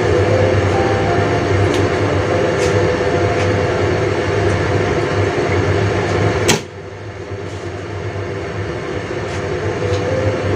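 Baby squid cooking in a lidded stainless wok on a gas stove, a steady sizzling hiss. A sharp click comes about six and a half seconds in, after which the sound is quieter.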